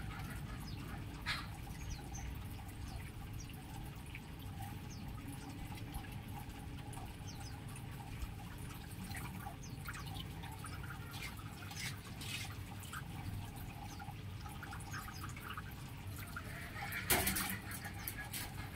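Aviary birds making scattered short chirps and clicks over a steady low background noise, with one louder sharp sound about 17 seconds in.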